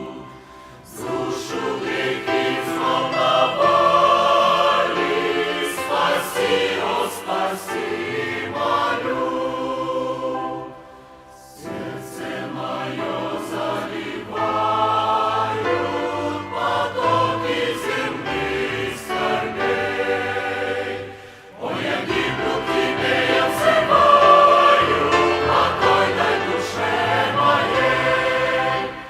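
Choir singing a Christian hymn in long phrases, with two brief breaks between phrases, about eleven and twenty-one seconds in.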